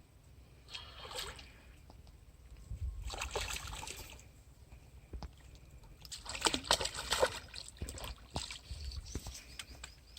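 Water splashing and sloshing in three irregular bursts, the longest and loudest about six seconds in, with smaller splashes and scrapes between.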